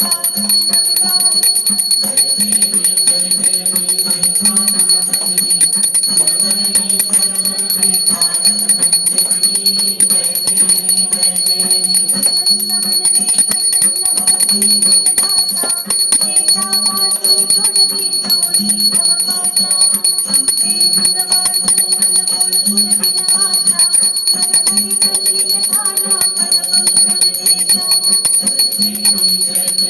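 Hindu devotional aarti music for Ganesh, with singing over steady, fast rattling hand percussion.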